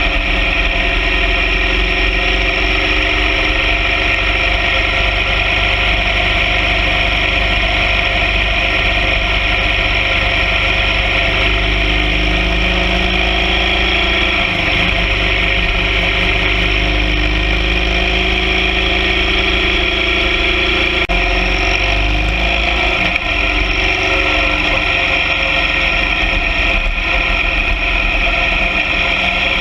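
BMW R 1200 GS Adventure sidecar rig's boxer twin engine running steadily under way, its pitch shifting briefly about halfway through and again a few seconds later.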